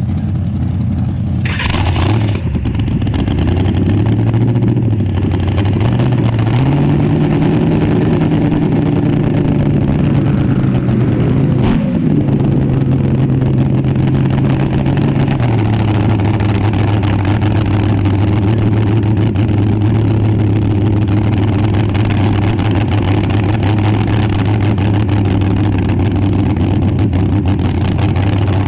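Front-engine dragster's engine running at a loud idle before a pass. Its pitch rises a little a few seconds in, holds higher, then drops back to a steady idle about halfway through, with a brief rushing noise about two seconds in.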